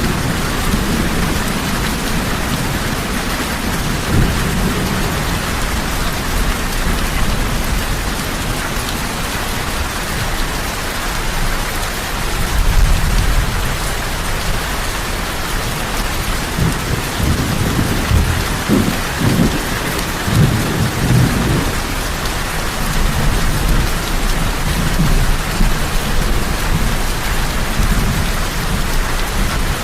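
Heavy rain falling steadily. Low rumbles of thunder swell up about twelve seconds in and again between about seventeen and twenty-two seconds.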